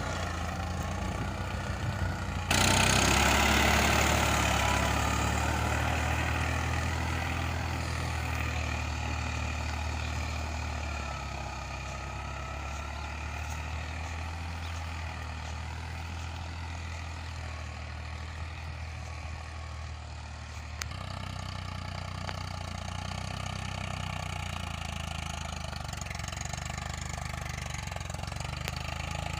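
Farmtrac 45 tractor's diesel engine working in second gear with an 11-tine cultivator. It gets suddenly louder about two and a half seconds in, eases back over the following seconds, and shifts its note again about three quarters of the way through.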